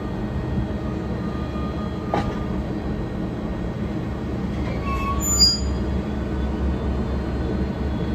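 Passenger train running in the station with a steady low rumble. A short knock comes about two seconds in, and the wheels squeal briefly about five seconds in.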